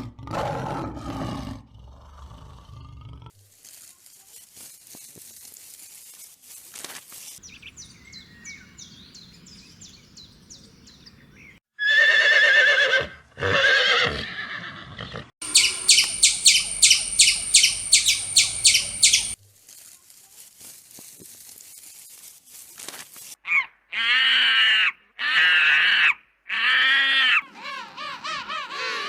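A series of short animal calls, one clip cut after another. They include loud calls with a wavering pitch and a run of rapid high chirps, about four a second.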